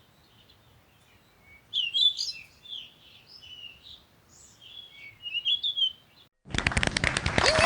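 Birds chirping in several short, high phrases with quiet gaps between them. Near the end, a loud cheering crowd cuts in suddenly.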